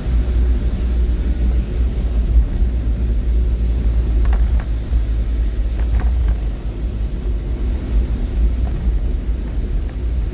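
Steady low rumble of a moving vehicle, with a few faint clicks about four and six seconds in.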